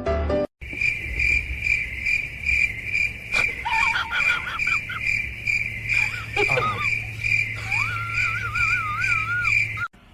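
Steady insect chirping, like a cricket, repeating about three times a second over a low hum, with short warbling whistled calls in the middle and near the end.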